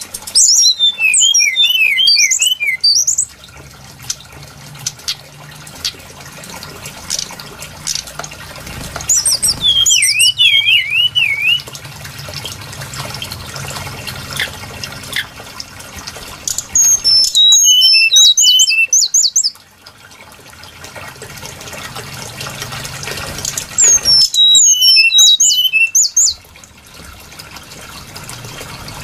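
Brown-chested jungle flycatcher song: four phrases of rapid, high, sweeping whistled notes, each two to three seconds long and about seven seconds apart, over a steady fainter hiss.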